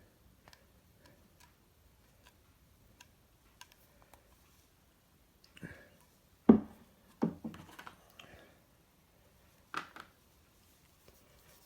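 Light clicks and taps of a tool and hands working filler onto a ceramic bowl, with a few louder knocks about six and a half, seven and ten seconds in.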